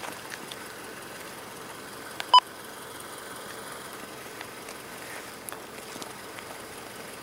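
Steady background hiss with one short electronic beep about two seconds in.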